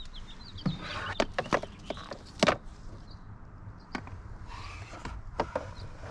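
Irregular plastic clicks and knocks from handling the glove box and the cabin air filter housing, about seven in all, the loudest about two and a half seconds in, over a steady low rumble.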